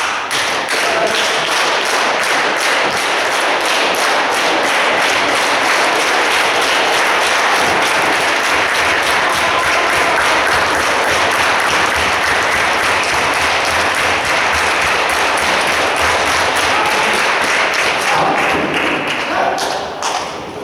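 Wrestling crowd clapping in a steady rhythm over general crowd noise, easing off near the end.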